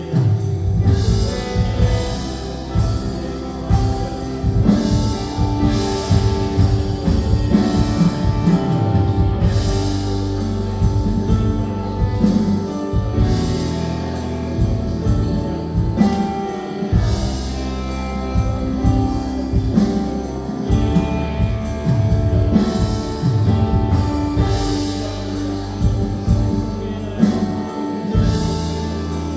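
Live church worship band, with keyboards, synthesizer, bass guitar, electric guitar and drum kit, playing a steady instrumental with sustained chords over bass and regular drum hits.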